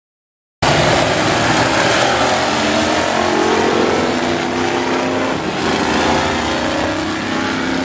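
Several demo trucks' engines running and revving around a speedway track, with a wash of noise under them; the sound cuts in suddenly about half a second in.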